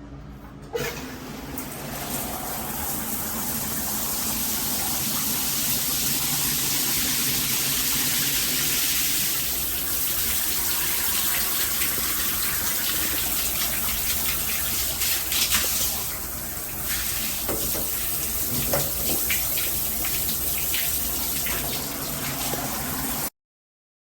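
Rain shower system turned on with a click of the valve, then water running steadily from the shower head as a loud, even hiss.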